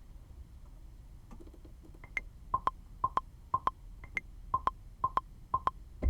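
Metronome clicks from beat-making software ticking at about two a second, a higher-pitched accent click on every fourth beat.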